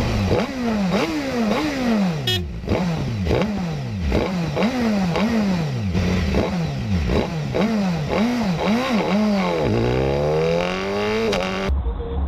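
Motorcycle engine revved up and down again and again, its pitch climbing and falling about every three-quarters of a second. Near the end it makes one longer rise before it cuts off suddenly.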